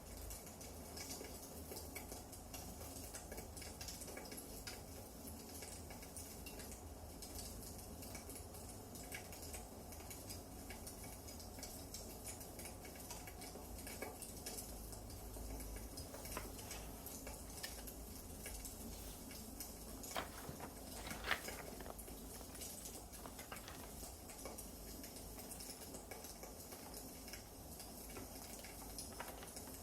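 Burning firewood crackling steadily with a scatter of small irregular pops, and a few louder snaps a little past the middle.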